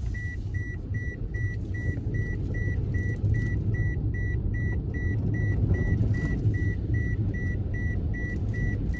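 A car driving on a rough road, heard from inside the cabin: a steady low rumble of engine and tyres. Over it an electronic beep repeats evenly, about two and a half times a second.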